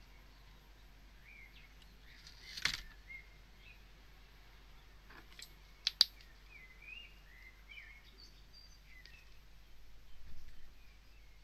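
Faint bird chirps in the background, short twittering notes scattered throughout. A few sharp clicks cut in, one about two and a half seconds in and a close pair about six seconds in, the loudest, with a brief rustle near the end.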